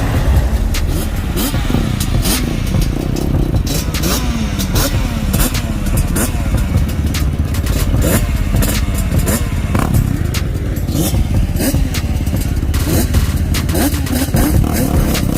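Vehicle engines running and revving in rising and falling sweeps over a heavy low rumble, with many sharp clicks and clatter.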